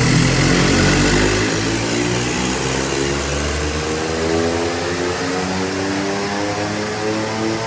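Volkswagen Polo's turbocharged 1.0 TSI three-cylinder engine, Stage 2 remapped with a downpipe, at full throttle on a chassis dynamometer. The revs climb slowly and steadily through the pull under load.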